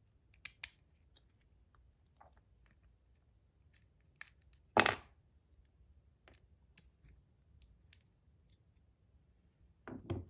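Metal fidget tops being handled and set down on a desk: a few scattered light clicks and one louder knock about five seconds in.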